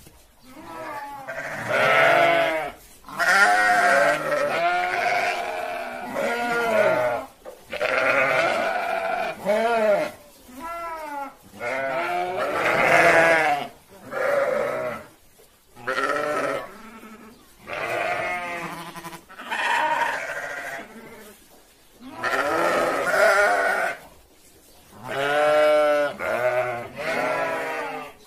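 Goat bleating again and again: about a dozen wavering, quavering calls, each a second or two long, with short pauses between them.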